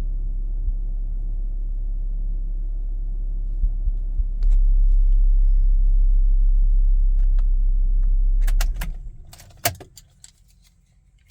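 Volvo V70R's turbocharged inline-five engine running steadily at idle, getting louder about four seconds in, then switched off near the end, its rumble dying away. A cluster of clicks and a key jingle follows the shutdown.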